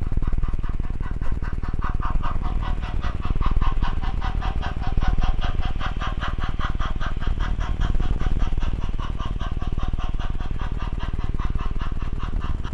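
Faulty audio recorded by an SQ23 mini camera riding a model train: a low rumble under a rapid, regular buzzing flutter, the distorted sound that appears when recording is started from the phone app.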